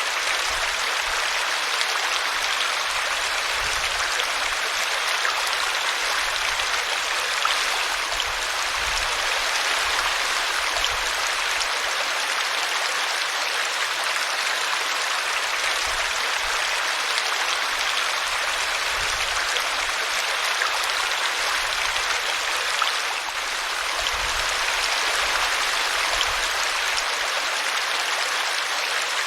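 Small brook running over a tree root: a steady rush and splash of water.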